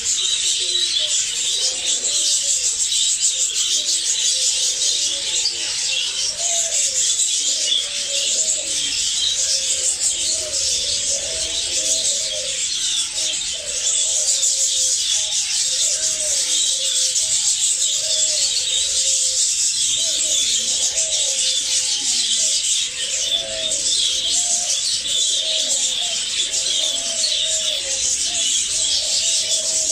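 A flock of parrots chattering and squawking nonstop in a dense, high-pitched din, with a low cooing call repeating about once a second underneath.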